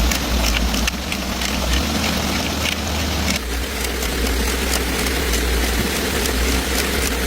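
An engine running steadily at idle, with a low hum and faint rapid ticking. The sound changes abruptly about three and a half seconds in.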